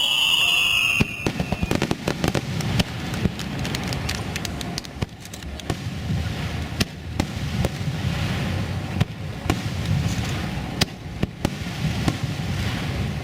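Aerial fireworks going off: a whistling shell falling in pitch cuts off about a second in, then a dense crackle of sharp pops and bangs over a steady low rumble.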